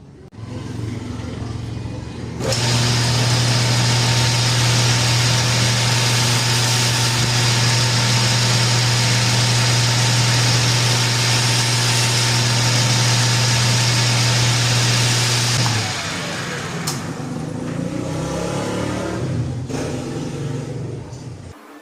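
A shop power tool's electric motor starts up, then runs loud and steady from about two seconds in, with a constant low hum and a hiss. Well past the middle it cuts off and winds down with a falling pitch, and a quieter, uneven mechanical sound follows until near the end.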